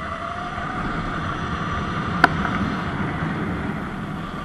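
Surron X Light Bee electric dirt bike rolling down a steep dirt road: steady tyre and wind noise with a faint motor whine. One sharp click about two seconds in.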